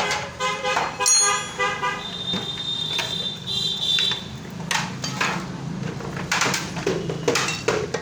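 Repeated pitched beeps like a horn or buzzer, about four a second, giving way to a steady high tone, then several sharp metallic knocks and clinks of tools on metal.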